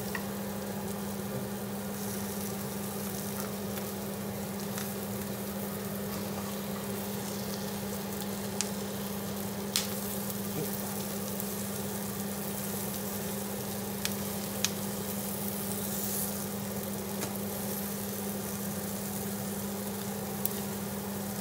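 Herring roes frying in oil in a non-stick pan over low heat, a steady gentle sizzle, with a few light clicks of a fish slice against the pan as they are turned over. A steady hum from the extractor fan runs underneath.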